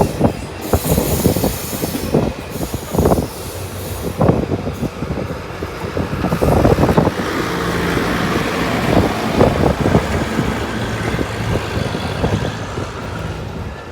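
Train moving along the track, its wheels clattering in irregular knocks, with a steady low hum joining about halfway through.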